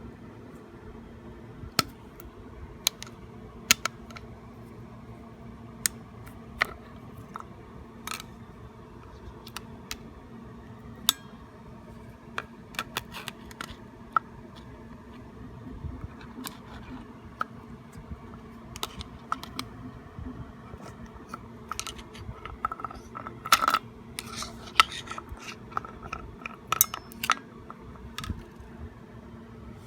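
Irregular sharp clicks and light metallic taps of tools and parts being handled on a scooter under repair, coming more thickly near the end, over a steady low hum.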